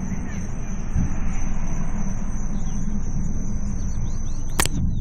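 A deep, steady outdoor rumble of unknown source, of the kind these clips present as a strange sound in the sky, with a steady high-pitched insect trill over it and a sharp click near the end.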